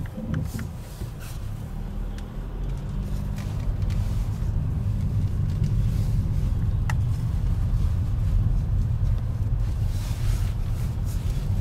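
Car engine running with a steady low hum that grows louder over the first few seconds, then holds.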